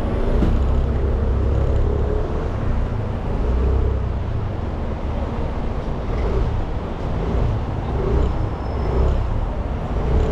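A 300 cc motorbike engine running steadily while it is ridden, the pitch and level rising and falling a little with the throttle.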